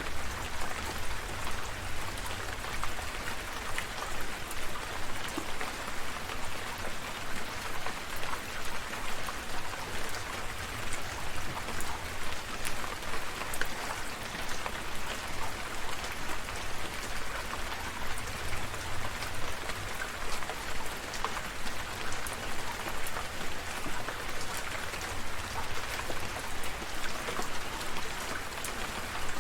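Steady rainfall with many separate drops ticking close by, over a low, steady rumble underneath.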